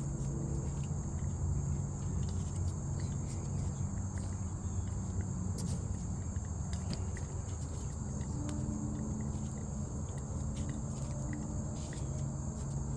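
Steady high-pitched chorus of insects, cricket-like, with a low steady hum beneath and scattered faint clicks.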